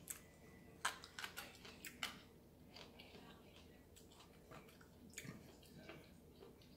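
Faint eating sounds close to the microphone: chewing with scattered small clicks and mouth smacks, most of them in the first couple of seconds.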